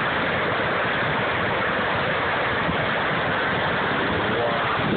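Floodwater of the Popo Agie River's Middle Fork rushing through a canyon, a loud steady roar of whitewater without letup.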